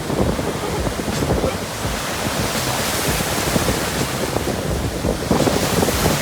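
Rough surf stirred up by a typhoon, waves breaking and washing in a continuous rush, with wind buffeting the microphone. The waves surge louder about five seconds in.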